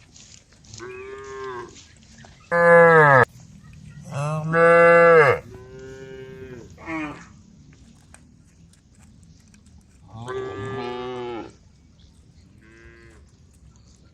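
Several cows mooing in turn, about seven calls of different lengths and pitches. The two loudest come close together a few seconds in, and quieter ones follow later.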